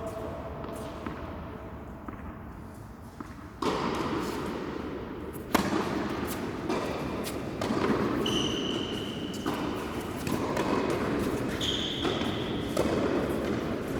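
Tennis ball repeatedly struck by rackets and bouncing on the court during doubles play, a series of sharp knocks, with two short high squeaks partway through.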